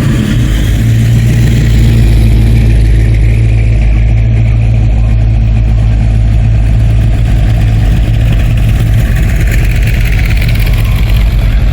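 A car engine running with a deep, steady rumble.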